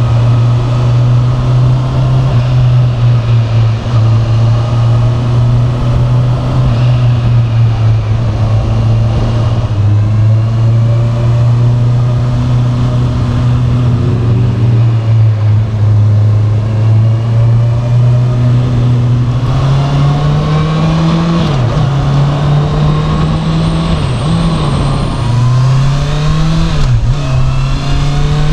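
Honda CB650R's 649 cc inline-four engine, through its standard exhaust, heard while riding. It runs at a steady pitch for most of the time, then in the last third the bike accelerates up through the gears, the note climbing and dropping back at each of about three shifts.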